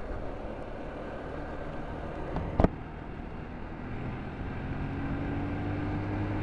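Motorcycle on the move: steady wind and road noise, a single sharp click about two and a half seconds in, then the engine note coming up and rising slowly as it pulls.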